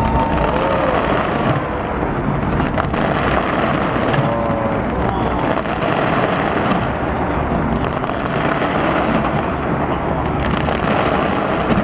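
Fireworks exploding in a continuous rumble of overlapping booms, with a few sharper bangs standing out.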